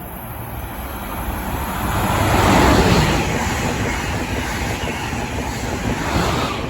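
A passenger train passing close by on the Northeast Corridor. Its rushing wheel and rail noise builds to a peak about two and a half seconds in and then holds steady.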